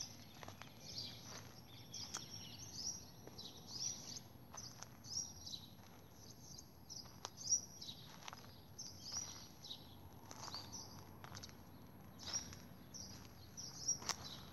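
Small birds chirping, short high chirps that rise and fall, repeated irregularly over a faint background hum, with a few sharp clicks.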